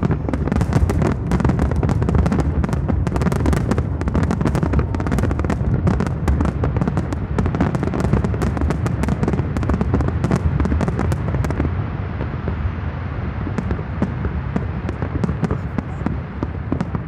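Aerial fireworks going off in rapid succession, a dense run of sharp cracks and bangs over a continuous low rumble of shell bursts echoing across the water. The crackling thins out somewhat about two-thirds of the way through while the rumble goes on.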